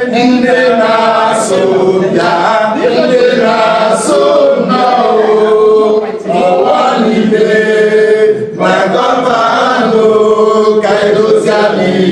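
A group of voices singing or chanting together, unaccompanied, in held notes that change pitch.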